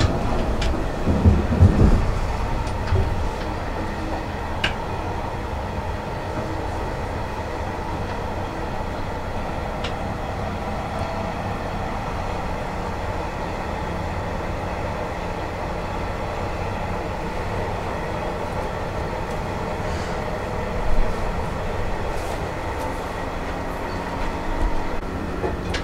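SJ InterCity passenger train running on the rails with a steady rumble. There are a few heavy thumps in the first two seconds and one sharp knock about 21 seconds in.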